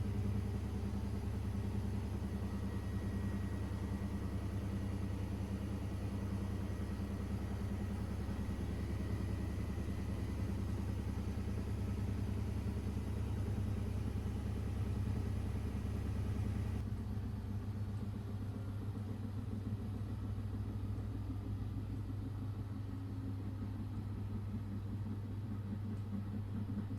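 Miele washing machine running with a steady low hum. About 17 seconds in the sound changes as its deepest part drops away.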